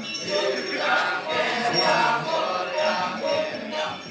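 A chorus of voices chanting and singing in the Kecak style, in a pulsing rhythm, with bells jingling.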